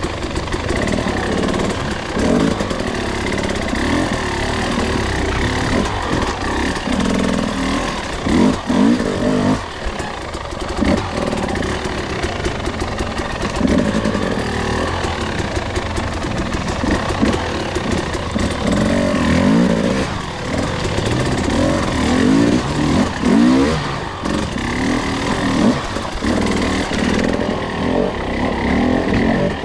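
Two-stroke enduro dirt bike engine under way at low to mid revs, the throttle opening and closing over and over so the pitch rises and falls every second or two.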